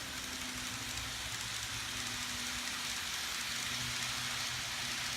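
N-scale model train running on the layout: a steady rushing hiss of wheels on track with a faint low motor hum that fades in and out.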